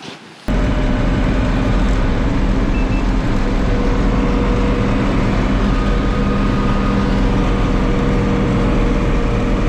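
1983 Unimog U1700L ex-army truck's engine running steadily on the road: a loud, even low drone with steady engine tones. It cuts in suddenly about half a second in.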